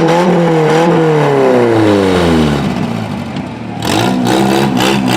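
Race car engine whose pitch falls steadily over about two and a half seconds as it slows or passes, then an engine running at a steadier pitch from about four seconds in.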